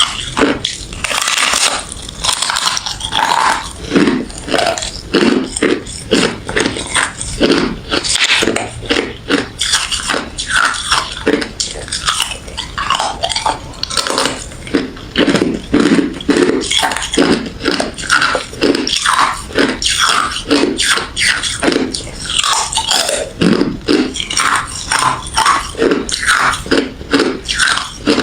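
Refrozen crushed ice and freezer frost being bitten and chewed close to the microphone: a steady run of sharp, brittle crunches, one after another with hardly a pause.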